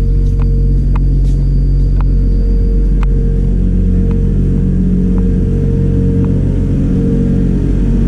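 A motor running steadily with a deep hum and rumble, with faint scattered ticks now and then.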